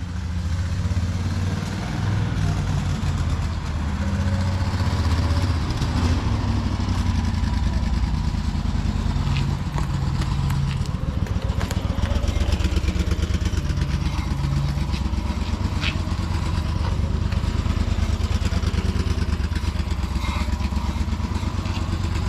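The Honda V-twin engine of a 1966 Westcoaster three-wheeled mail truck, running steadily. It grows louder over the first couple of seconds, and its pitch shifts up and down now and then.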